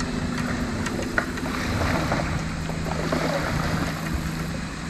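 A steady low engine hum, with a few small clicks over it.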